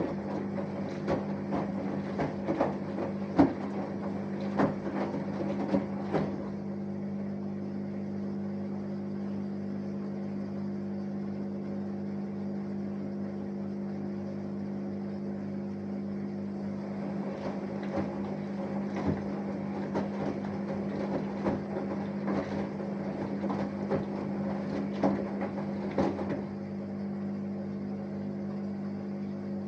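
Samsung Eco Bubble inverter-motor washing machine in its wash cycle: a steady hum runs throughout while the tumbling laundry gives irregular knocks and swishes. The tumbling sounds stop for about ten seconds in the middle, then start again.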